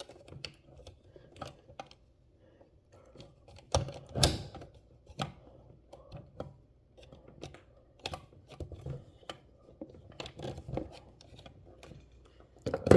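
Small plastic toy-fridge pieces clicking and tapping as trays and parts are fitted into place. The light clicks are irregular, with two louder knocks about four seconds in.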